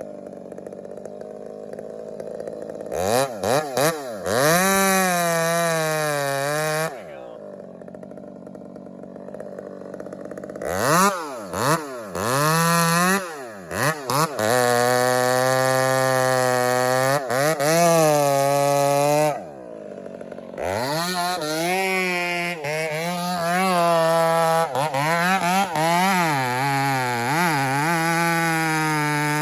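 Two-stroke chainsaw revving up to full throttle in long bursts, its pitch wavering as the chain works through wood. It drops back to idle twice, about a third of the way in and again about two-thirds in. These are felling cuts into a large decayed cedar.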